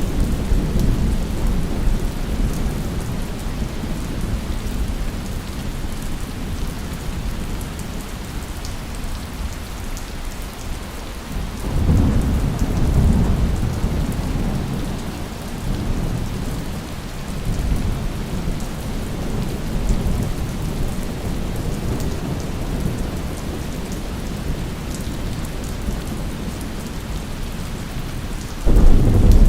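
Steady heavy rain falling, with rolling thunder that swells about twelve seconds in and again, more sharply, near the end.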